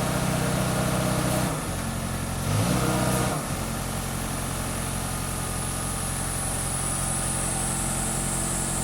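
Heavy diesel truck engine idling, with a brief rise and fall in revs between about two and three seconds in before settling back to a steady idle. A faint high whine runs along with it from about three and a half seconds.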